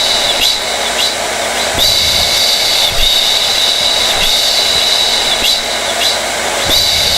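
Hair dryer running steadily: a loud rush of air with a high motor whine that wavers and dips briefly every second or so.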